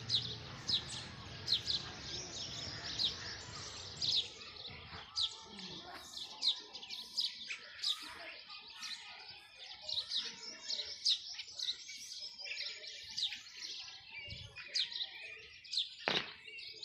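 Small birds chirping, many short high calls repeated throughout, with a single sharp click near the end.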